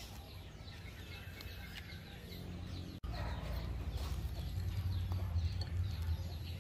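Faint outdoor ambience: scattered short bird calls over a steady low rumble, a little louder from about halfway through.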